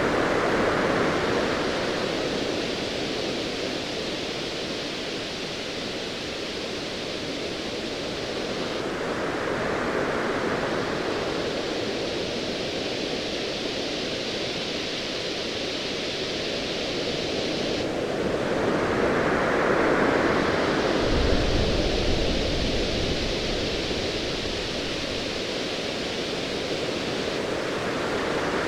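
Ocean waves swelling and washing in slow surges about every ten seconds over a steady hiss, with a low rumble of distant thunder a little past the middle.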